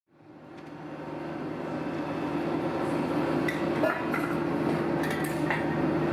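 An engine running steadily, fading in over the first second or two, with scattered light metallic clinks.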